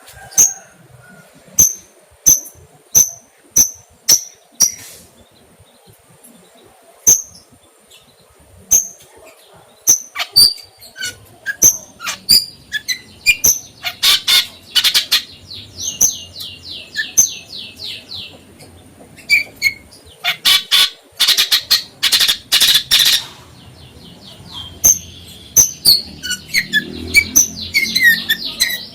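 A songbird calling loudly: short, sharp high chirps about every half second to a second at first, then fast rattling trills and dense runs of notes around the middle, and clustered chirps again near the end.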